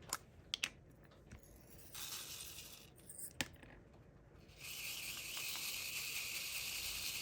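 Tiny resin diamond-painting drills clicking against a plastic tray a few times, then a fine, steady rattling hiss of many drills shifting in the tray, louder from about halfway through.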